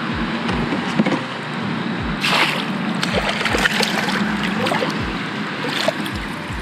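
Water splashing and sloshing at the side of a kayak as a hooked fish thrashes near the surface, with one louder splash about two seconds in. Soft low knocks repeat about twice a second underneath.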